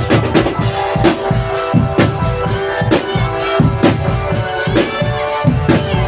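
Drum band music: a steady beat of about two drum strokes a second under a held, sustained melody.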